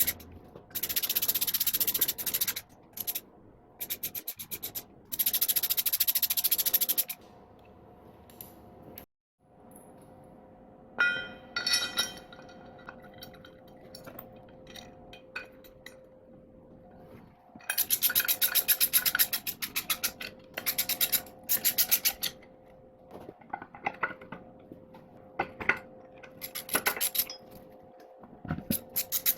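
Repeated bursts of rasping, rubbing strokes from hand-tool work, each lasting one to a few seconds, with a brief ringing clink about eleven seconds in.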